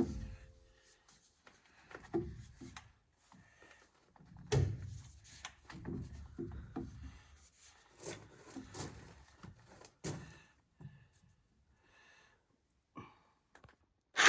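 Scattered light knocks and thunks with some rubbing, the loudest about four and a half seconds in, from plumbing pipe and fittings being handled.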